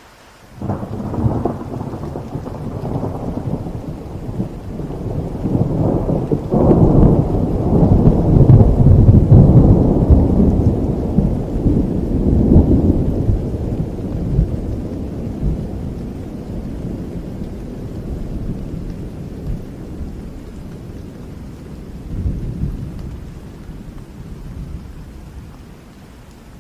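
A long roll of thunder over steady rain. It breaks in suddenly about half a second in, swells to its loudest in the middle and dies away slowly, with a smaller rumble again near the end.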